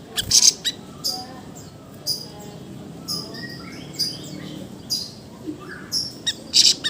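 Siri-siri songbird calling: a string of short, sharp, high notes, about one a second. The loudest come just after the start and again near the end.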